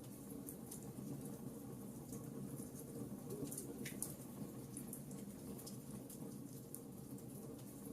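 Fire in a fireplace crackling: scattered small pops and snaps over a steady low background of the burning fire, with one sharper pop about four seconds in.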